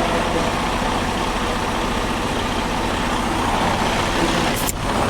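Heavy diesel truck engine running steadily amid highway traffic noise, with a single short click near the end.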